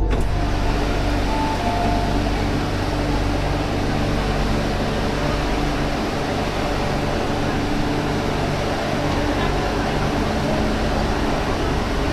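Cabin noise inside an MTR Q-train (Hyundai Rotem) on the Tsuen Wan line: a steady rumble and hiss of the running train with a constant low hum. The hiss comes in abruptly right at the start.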